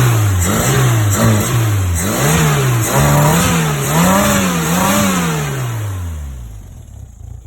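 Modified Renault 1400 cc four-cylinder pushrod engine with a heavy-duty cam, being revved again and again. Short throttle blips come first, then longer, higher revs from about two to five seconds in, and the revs fall away near the end.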